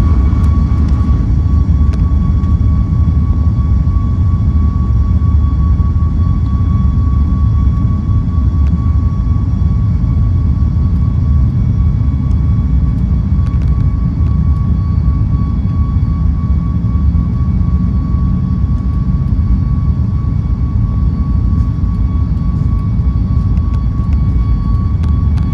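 Boeing 737 MAX's jet engines heard from inside the passenger cabin: a loud, steady deep rumble with a steady high whine over it that rises slightly at the start.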